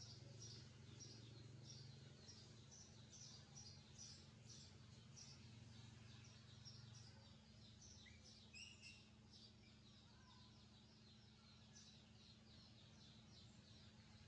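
Faint, rapid high-pitched chirping from young birds, about three chirps a second. One lower call comes a little past halfway, over a steady low hum.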